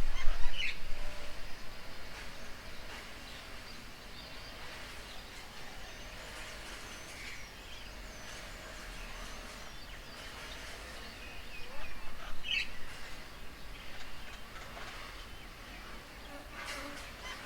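Wild birds at an outdoor bird table giving scattered short chirps and whistled calls over steady outdoor background noise, a little louder near the start and again about twelve seconds in.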